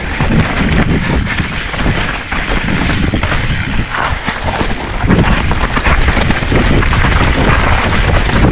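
Specialized Stumpjumper mountain bike descending a rough, rocky trail: tyres on dirt and rock, the bike rattling and jolting, with thuds and rumble buffeting the action camera's microphone. It gets louder about five seconds in.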